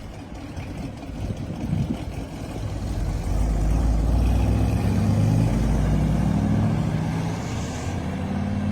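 Classic muscle car engine running with a deep exhaust note, growing louder about three seconds in and holding there before easing off slightly near the end.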